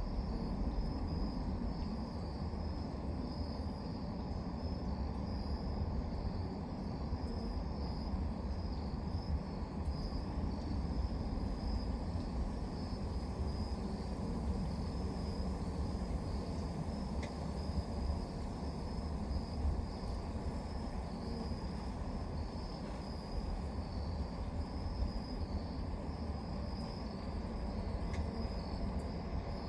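Crickets chirping in a steady, pulsing high-pitched chorus over a constant low rumble.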